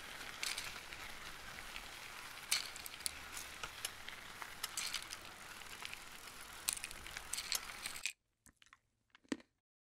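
Food sizzling in a frying pan, a steady hiss with crackles and pops. It cuts off suddenly about eight seconds in, leaving a few faint clicks.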